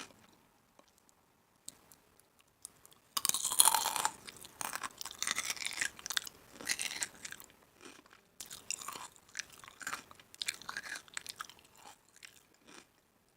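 Close-up chewing and crunching of crisp food, starting about three seconds in after a quiet stretch and going on in uneven bursts of crackle with short pauses.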